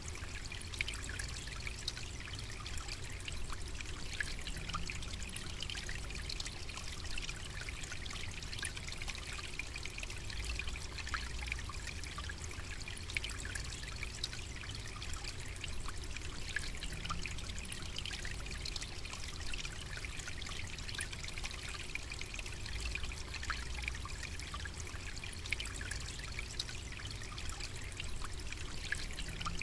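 Steady savannah nature ambience: an even trickling hiss with many faint ticks and crackles running through it.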